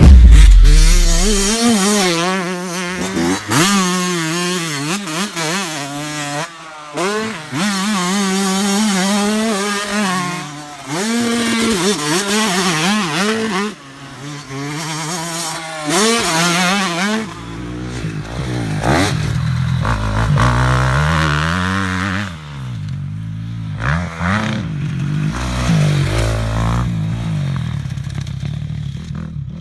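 Motocross dirt bike engines revving hard on a track, their pitch rising and falling over and over as the throttle opens and closes.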